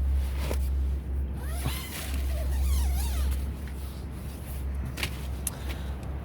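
Wind rumbling steadily on the microphone while a tent's door zip is pulled open and the tent fabric is handled, with a couple of sharp clicks near the end.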